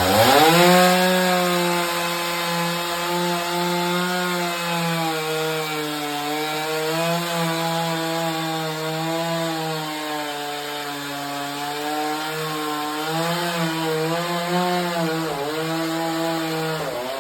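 Chainsaw revving up sharply at the start and running at high speed while cutting wood, its pitch dipping and recovering under the load of the cut, then dropping back near the end.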